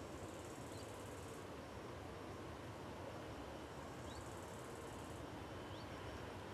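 Faint, steady low rumble of a distant electric freight train passing, with an insect buzzing twice for about a second each time and three short rising bird chirps.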